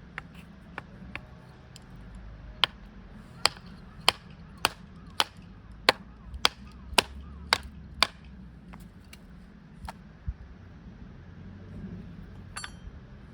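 Hammering: a few light taps, then about ten hard, sharp strikes at an even pace of roughly two a second, then a few lighter ones. A short metallic clink rings out near the end.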